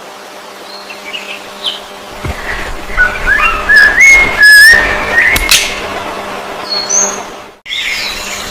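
Songbirds chirping and whistling, with a quick run of loud whistled notes in the middle. A few steady low tones and a low rumble sit underneath. The sound cuts out abruptly for a moment near the end before the chirping resumes.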